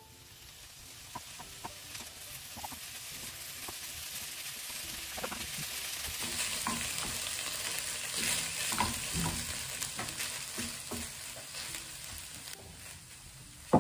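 Brown rice with sweetcorn and onion sizzling in melting butter in a non-stick frying pan, stirred and scraped with a wooden spatula that knocks lightly on the pan. The sizzle grows louder over the first half, then eases a little.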